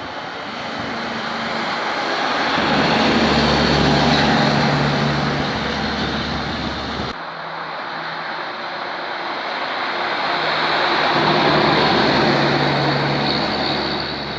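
Heavy dump trucks driving past, one after the other: each engine's drone and road noise builds to a peak and then fades. There is an abrupt cut between the two passes about seven seconds in.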